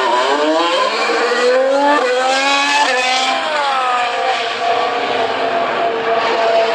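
Formula One cars' turbocharged 1.6-litre V6 hybrid engines accelerating out onto the circuit: the pitch climbs in steps through quick upshifts over the first three seconds, then falls away and settles into a steadier drone.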